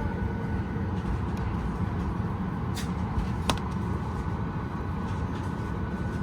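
Steady hum and rumble of cabin air ventilation inside a Boeing 737 MAX 8 parked at the gate, with a faint steady whine. Two short sharp clicks come about three seconds in.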